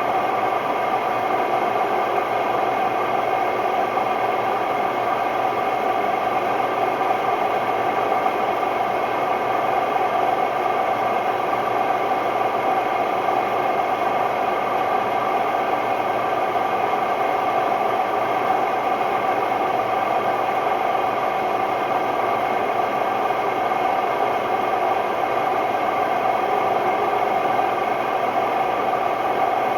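Hotpoint Ultima WMD960 washing machine on its spin cycle, extremely noisy: a steady drone of several tones with rattle and vibration, the sound of bad drum bearings.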